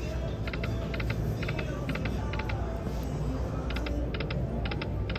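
Slot machine spinning its reels: quick clicking in little clusters of three or four ticks, about two clusters a second, over the steady din of a casino floor.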